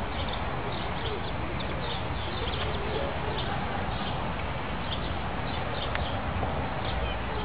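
A flock of flamingos calling: a steady chatter of many short, overlapping calls over constant background noise.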